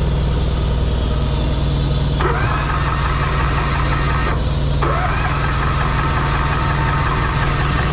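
Diesel engine idling steadily. A starter cranks a small engine, the trailer's pony motor, as a higher whirring that begins about two seconds in, stops briefly and starts again without the engine catching.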